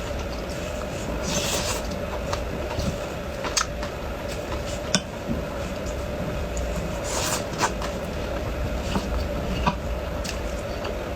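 Close-miked eating sounds: scattered clicks and brief crunchy bursts of chewing and handling food, over a steady low hum.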